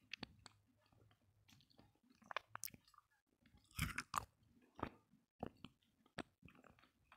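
Close-up chewing of roasted multani mitti (Fuller's earth clay): a run of short, sharp crunches at irregular intervals, the loudest cluster about four seconds in.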